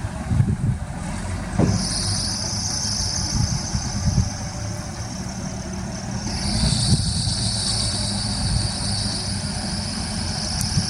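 Heavy diesel earthmoving machinery running with a low, steady rumble. A high steady buzz joins about two seconds in.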